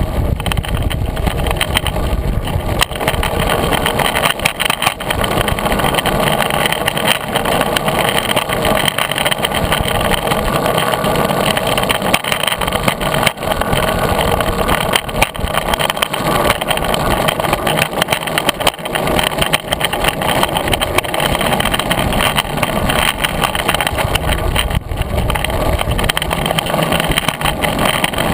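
Longboard wheels rolling over a rough, bad path surface: a loud, steady rumble broken by frequent sharp clicks.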